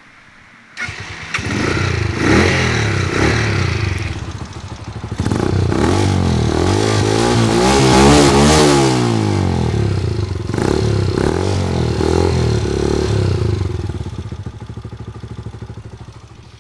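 WK 125RR motorcycle's 125cc engine on its stock exhaust starting up about a second in, then revved several times, the longest rev climbing and dropping back around the middle, before easing down toward idle near the end.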